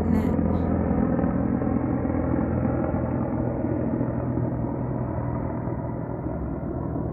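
Helicopter flying past overhead: a steady droning engine and rotor sound that gradually gets quieter as it moves away.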